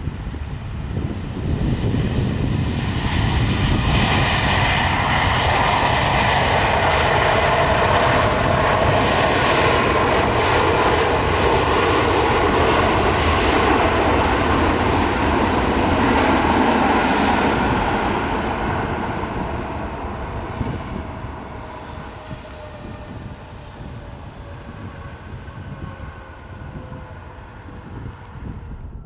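Large jet airliner's engines passing close by. The engine noise builds within the first couple of seconds and holds loud and steady, then fades from about two-thirds of the way in, with a tone that falls in pitch as the aircraft moves away.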